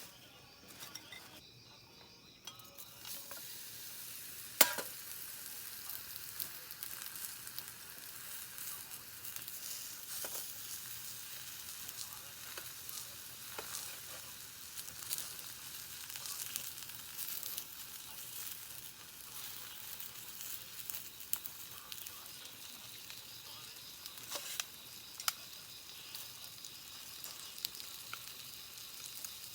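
Food frying in a hot pan: a steady sizzle with scattered small pops, starting about three seconds in, and one sharp click a little over four seconds in.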